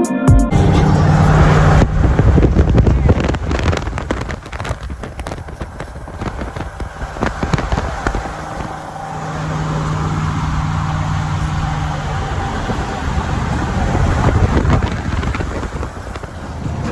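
A car engine running loudly, with a steady low tone and much rough crackling over it.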